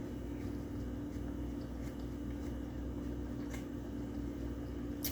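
Steady low electrical hum of room tone, with a few faint clicks about two, three and a half, and five seconds in.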